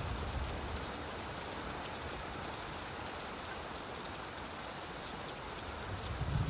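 Steady rainfall, an even patter of drops on a surface. A low rumble of thunder fades out just after the start and builds again near the end.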